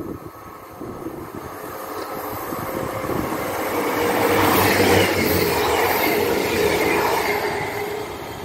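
Diesel multiple unit passenger train running through the station without stopping. Its rush of engine and wheel noise builds, is loudest about halfway through with a falling pitch as it passes, then fades as it goes away.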